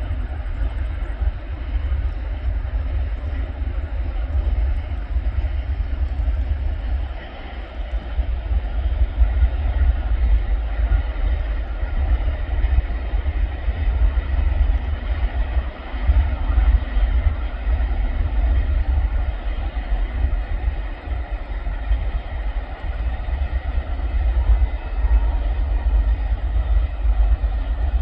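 BNSF double-stack intermodal freight train rolling past, a steady deep rumble of the cars running on the rails, with brief dips in level twice.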